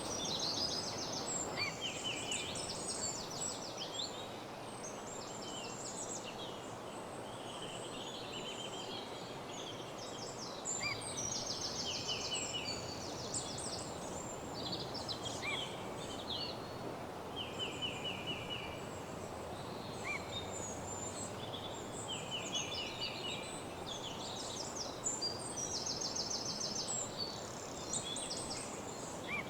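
Several woodland songbirds singing together in a morning chorus: overlapping rapid trills and high chirps, one after another, over a steady background hiss.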